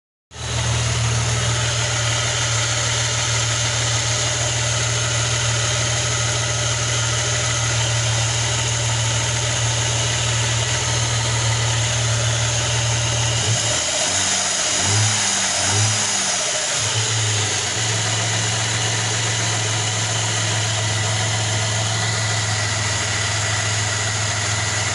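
Opel Omega B's X25XE 2.5-litre V6 engine idling steadily, blipped up and down a few times between about 14 and 17 seconds in. The engine has a knock that the owner puts down to a worn bearing shell.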